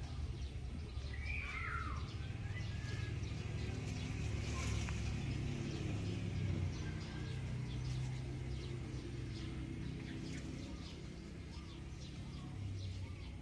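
Outdoor ambience: a bird gives one short, curving call about a second and a half in. Fainter chirps and light ticks follow, over a steady low rumble.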